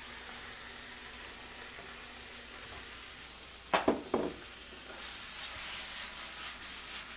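Chicken pieces sizzling in hot oil in a stainless steel skillet: a steady hiss. A few sharp clatters come about four seconds in as the pan is handled and lifted off the burner.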